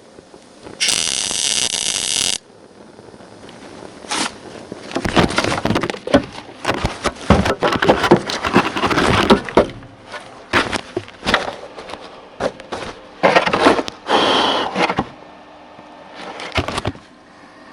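MIG welder laying short welds on a steel floor and sill patch: a steady buzz about a second in, then a run of crackling bursts of uneven length with short breaks between them.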